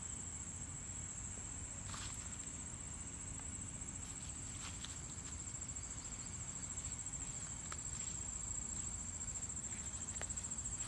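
Steady high-pitched trilling of an insect chorus, with a few faint clicks and rustles along the way.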